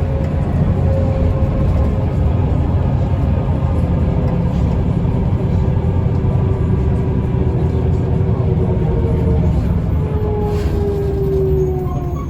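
Mercedes-Benz O405N2 city bus driving, heard from inside: a steady low rumble of engine and road, with a whine that falls in pitch near the end.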